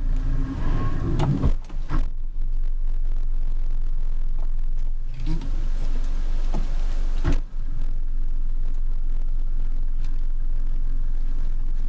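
An engine running steadily at a low idle, a deep even hum, with a few sharp knocks over it, one about a second in, others around six and seven seconds in.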